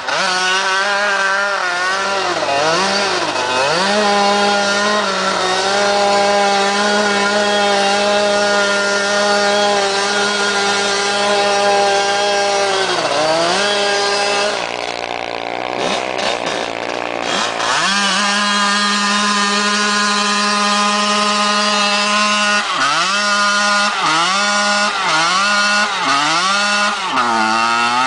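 Small dirt bike engine revved hard and held high during a burnout. The revs drop and climb back several times, with a longer drop a little past halfway and quick repeated dips near the end.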